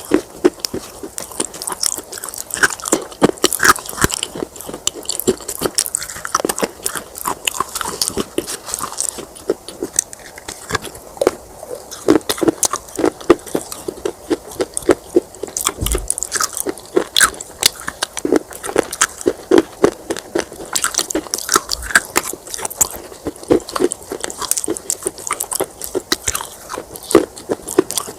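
Close-up biting and crunching of brittle baked clay pot pieces: a dense run of sharp, crisp crunches and crackles, several a second, with chewing between bites.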